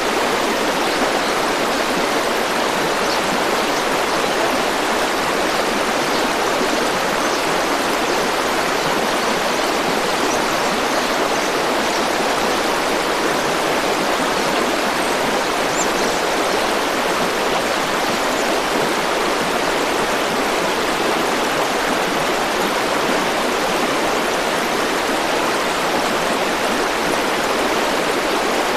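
A forest river flowing: a steady, even rush of water that does not change.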